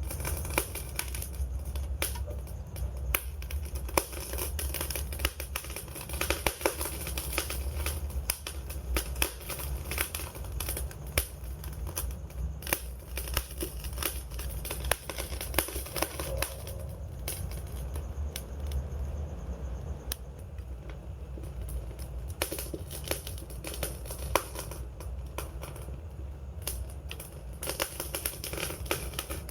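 Campfire burning: wood crackling and snapping in quick, irregular pops over a low steady rumble of flame.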